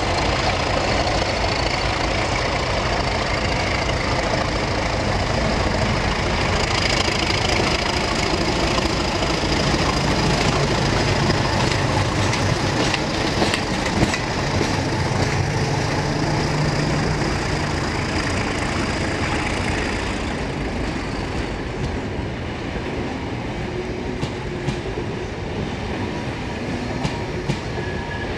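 Class 37 diesel locomotive passing close, its engine running with a high steady whine over it. About 20 s in the engine sound falls away and the Eurostar coaches rolling behind it take over, wheels clicking over rail joints.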